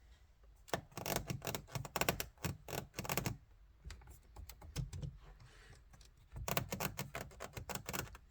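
Plastic trim around the radio of an Audi A6 C7 clicking and rattling in quick runs of sharp clicks, in two main bursts about a second in and near the end, with scattered clicks between. This is the radio-plastic noise fault.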